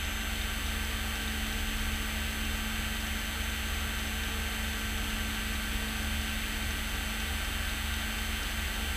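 Beechcraft Bonanza S35's six-cylinder piston engine running steadily at low power on the ground, a constant drone with a steady hum, heard from the cockpit.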